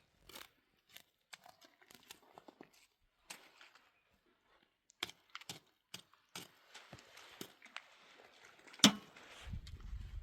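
Irregular small clicks, crinkles and rustles of close-up handling, with a sharp snap about nine seconds in followed by a brief low rumble.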